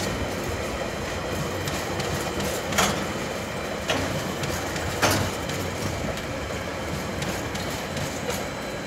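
Freight train flat wagons rolling past: a steady rumble of steel wheels on rail, with three sharp clanks about three to five seconds in.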